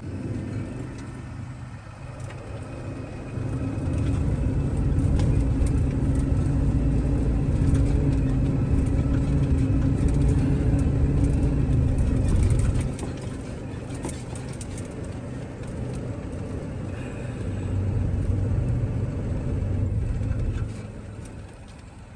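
Box truck's engine running under way, with a steady drone and road rumble. It gets louder about four seconds in and holds until about thirteen seconds, then eases. It rises again briefly near the end before dropping off.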